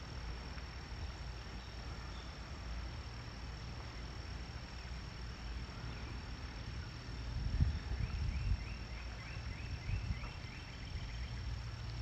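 Outdoor natural ambience: a steady high-pitched insect-like tone runs under a low rumble. About eight seconds in, a run of short, quick, repeated chirps lasts a few seconds.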